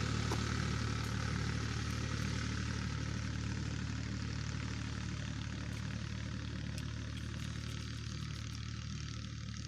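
Tractor diesel engine running steadily with an even low hum, growing slightly fainter.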